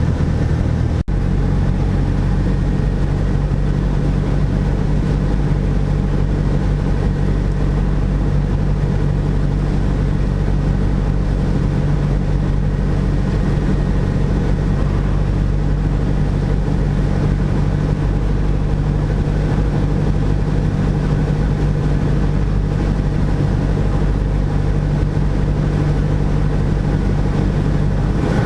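Cessna 172 SP's four-cylinder Lycoming IO-360 engine and propeller droning steadily at a constant power setting, with one momentary dropout about a second in.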